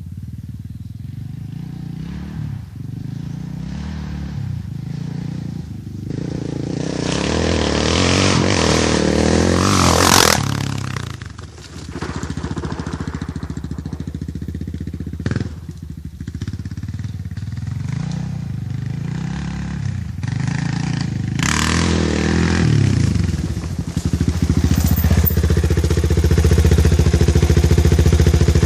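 Honda XR600R's single-cylinder four-stroke engine running, its revs rising and falling again and again. It is loudest about ten seconds in and again about twenty-one seconds in, each time dropping away quickly afterwards. Near the end it runs steadier and louder.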